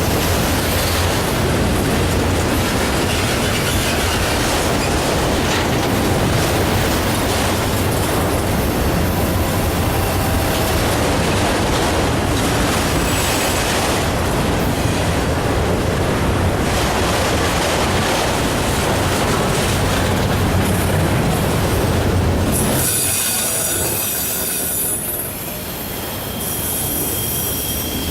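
A freight train's cars rolling past close by: a steady, loud rush of wheels on rail with clickety-clack over the joints, thinning out about 23 seconds in.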